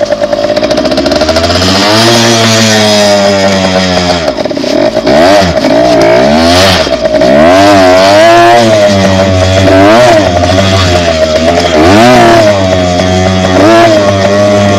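Dirt bike engine running hard, its pitch rising and falling repeatedly as the throttle is worked while riding.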